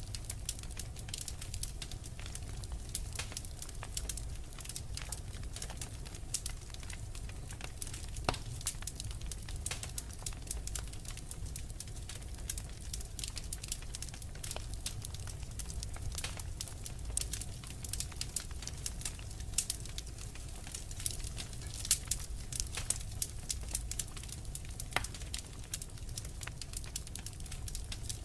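Wood fire burning in a fireplace: a steady low rumble of the flames with frequent irregular crackles and pops, a few sharper ones standing out.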